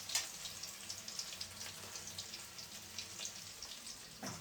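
Chicken pakoda deep-frying in hot oil: a faint steady sizzle with scattered small crackles and pops.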